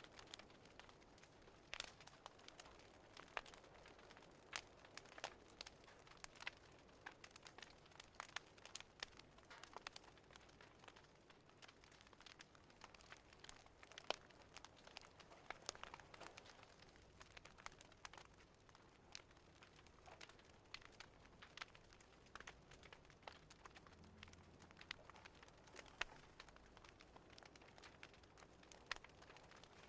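Faint crackling of a wood fire: irregular sharp pops and snaps over a soft hiss.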